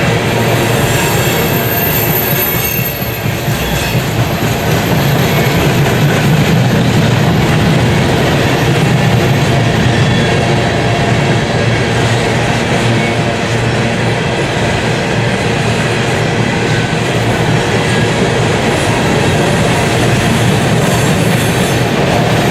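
Empty coal hopper cars rolling past on steel wheels: a steady, loud rumble and rattle of wheels on rail with clickety-clack, and a thin, high squeal over the first ten seconds or so.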